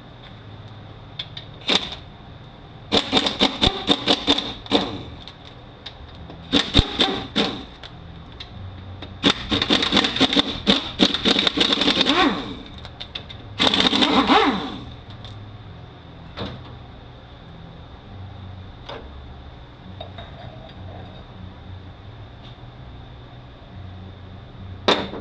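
Pneumatic impact wrench with a T45 Torx bit hammering fasteners loose on a manual transmission case, in four bursts of rapid rattling impacts, the third the longest.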